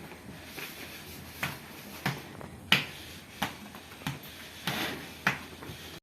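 A run of about seven sharp, short clicks at an even pace, roughly one every two-thirds of a second, over a faint steady background.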